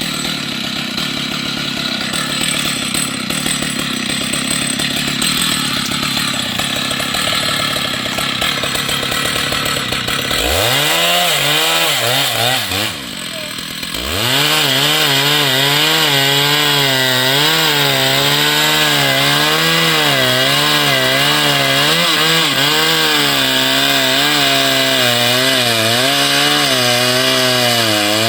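Two-stroke chainsaw running. About ten seconds in the saw revs up sharply and eases off briefly. It then runs at full throttle cutting wood, its pitch wavering under load.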